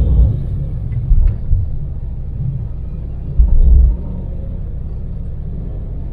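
Daewoo Damas microvan's small LPG-fuelled three-cylinder engine and road noise making a steady low rumble while driving at expressway speed, with a few louder deep thumps, the longest about three and a half seconds in.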